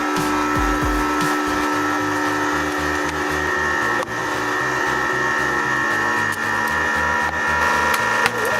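Hydraulic press pump motor running with a steady whine, over background music with a stepped bass line.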